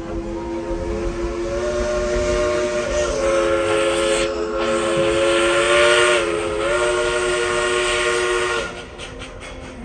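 Steam locomotive's chime whistle blowing one long blast of several notes together over the running noise of the train, dipping slightly in pitch about six and a half seconds in and cutting off near the end.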